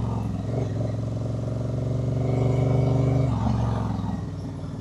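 Honda Rebel motorcycle engine running at a steady speed, then easing off about three and a half seconds in as the bike slows.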